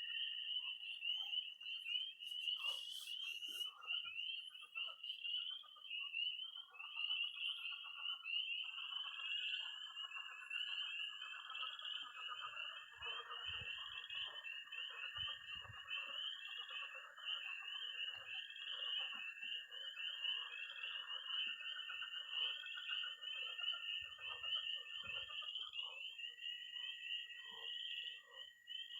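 Early-spring night chorus of spring peepers calling rapidly and continuously, with frogs croaking in a pond. Toads give a long, steady, high-pitched trill that starts about a third of the way in, breaks off briefly near the end and starts again.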